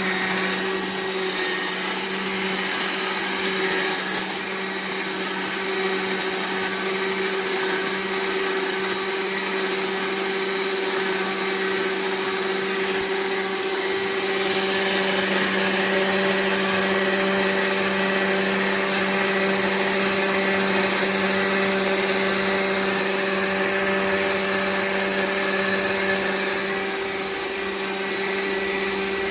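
AMZCHEF cold-press juicer running: a steady motor hum with a whirring noise.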